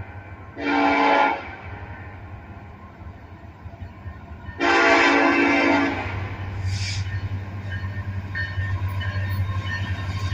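Diesel locomotive air horn sounding: a short blast about half a second in, then a longer blast of about a second and a half near the middle. After the second blast the low rumble of the locomotive grows louder as it draws closer.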